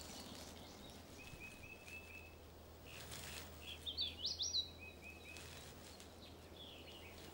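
Faint birdsong ambience: a run of short, evenly repeated chirps, then a few quick rising whistled notes about four seconds in, with more chirps after, over a low steady hum.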